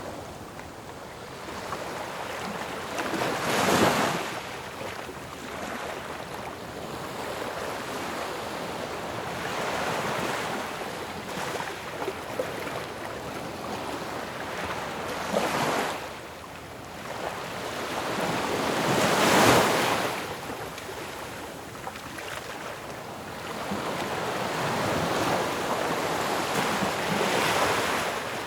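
Ocean waves crashing on a shore, the surf rising and falling in swells; the loudest breaks come about four seconds in and again about two-thirds of the way through.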